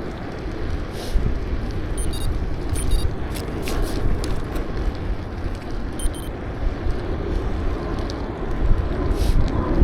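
Wind rumbling on the microphone and rolling noise while riding a bicycle, with a few brief high-pitched chirps or squeaks.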